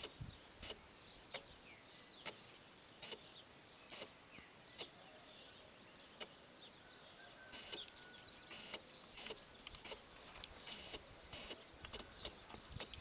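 Faint bird chirps and short calls against a quiet outdoor background, with scattered small clicks.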